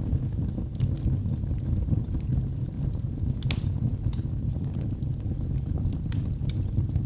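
Wood fire burning in a fireplace: a steady low rumble of the flames with scattered sharp crackles and pops, one louder pop about three and a half seconds in.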